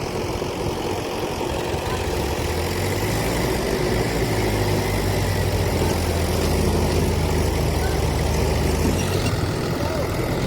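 Tractor diesel engine running hard under load as it labours up a steep slope, a steady low drone that eases off about nine seconds in.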